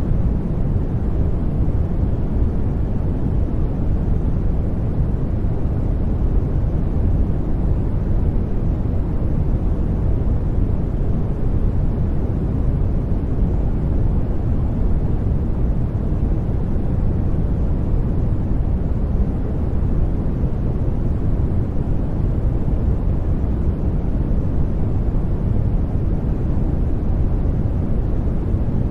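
Steady sleep noise (a white-noise track), deep and even, with most of its weight low down like brown noise and no change at all.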